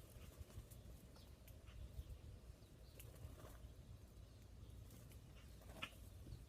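Near silence with a faint low rumble, scattered faint clicks, and two short, faint bird chirps, about halfway through and near the end.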